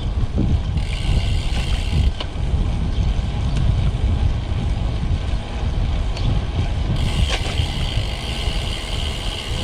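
Wind rumble on the microphone and road noise while riding a road bike, with a steady high buzz that drops out about two seconds in and returns near seven seconds.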